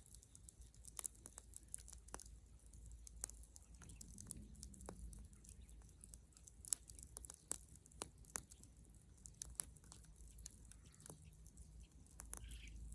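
Bonfire of dry dead wood burning, faint, with irregular sharp crackles and pops over a low rumble.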